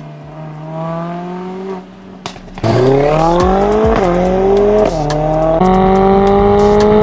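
Mercedes-AMG A45 S's 2.0-litre turbocharged four-cylinder through a full ARMYTRIX valvetronic exhaust: quiet at first, then loud and climbing in pitch about two and a half seconds in as it accelerates, with two quick pitch drops as it shifts up, then holding a steady tone before falling off near the end.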